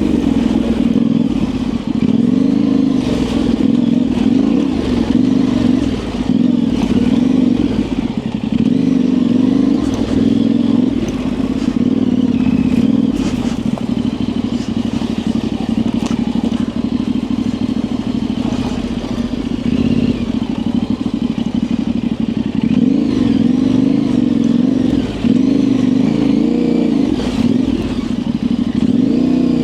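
Yamaha Ténéré 700's 689 cc parallel-twin engine running through an aftermarket high exhaust as the bike is ridden along a dirt trail, its pitch rising and falling continually with the throttle. Occasional clatter comes from the bike over rough ground.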